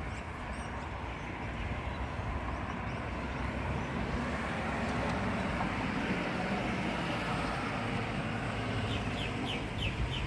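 Steady low rumbling outdoor noise ahead of a thunderstorm, swelling slightly after a few seconds, with a few short bird chirps near the end.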